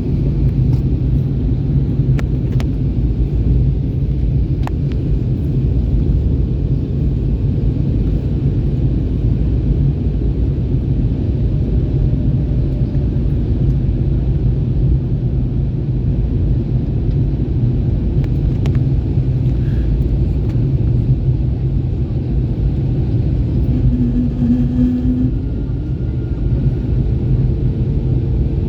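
Steady low roar of an Airbus A321neo in flight, heard from inside the passenger cabin: engine and airflow noise.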